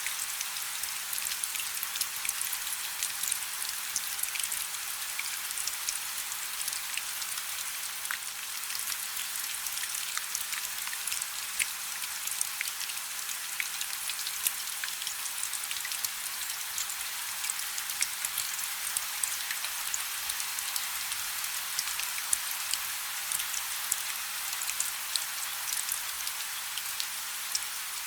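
Light rain falling: a steady, even hiss dotted with many small, scattered drop ticks.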